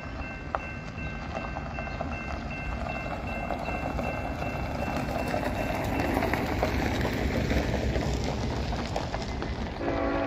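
Approaching diesel freight locomotives, a GE ET44AC leading a GE ES44DC, make a low rumble that grows steadily louder. Near the end the lead locomotive's K5HL air horn starts to blow, a loud multi-note chord.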